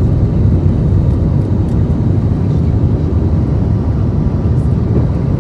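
Airbus A320 cabin noise heard from a seat by the wing: a steady, loud, low rumble of the jet engines at high thrust mixed with airflow over the fuselage.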